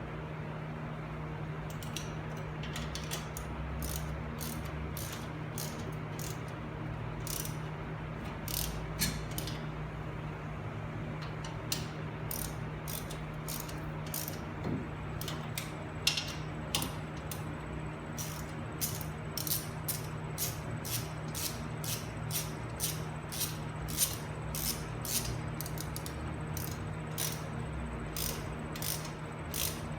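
Hand ratchet wrench clicking in short runs as bolts are driven during assembly of a new front wheel bearing and hub, the runs growing more frequent after about twelve seconds, over a steady low hum.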